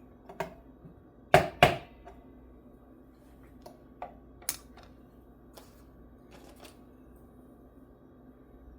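Tapping on a Strat-style electric guitar's neck to seat a part. There is a light tap, then two sharp taps about a second and a half in, followed by a few fainter clicks.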